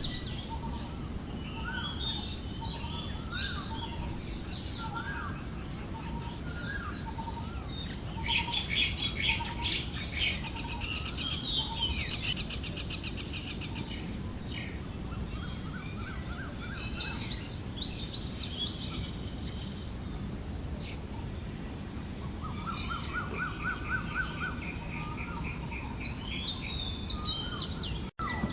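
Forest birdsong: a short chirp repeated about twice a second, a loud burst of rapid chattering about eight seconds in, and quick trills later on. These sit over a steady high-pitched hum and low breeze noise. The sound cuts out briefly near the end.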